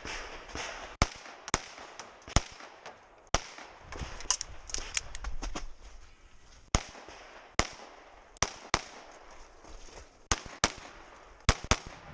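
Pistol gunfire in a run of sharp shots spread over several seconds, many fired in quick pairs, with short pauses between strings.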